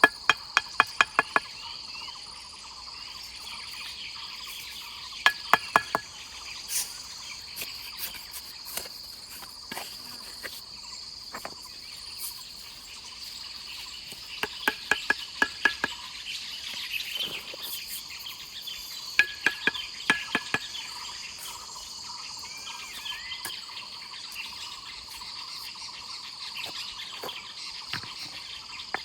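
Steady high-pitched drone of insects. Four times it is broken by a quick run of four to six sharp, loud knocks; these knocks are the loudest sounds.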